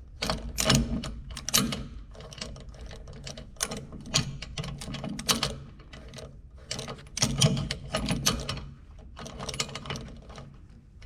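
Electric drill running with a steady motor hum while the bit cuts into clamped steel bar, chattering and scraping irregularly as it bites.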